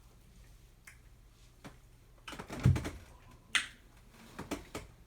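Mouth clicks and lip smacks from someone eating ice cream noisily: a string of sharp, irregular clicks, the loudest cluster, with a low thump, about two and a half seconds in.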